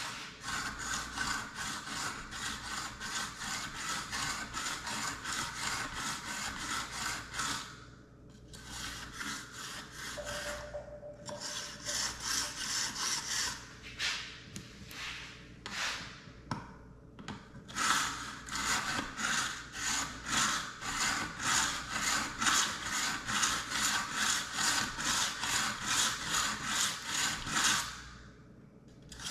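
A knife blade drawn again and again through the slots of a three-channel pull-through knife sharpener. Each stroke makes a gritty scrape, about two strokes a second, in sets broken by short pauses.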